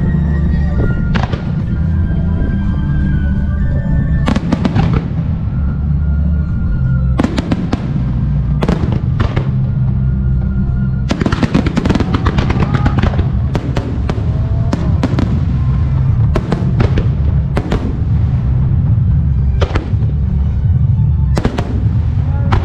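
Fireworks shells bursting one after another in a music starmine barrage: a constant rumble of booms with clusters of sharp cracks, over music played along with the display.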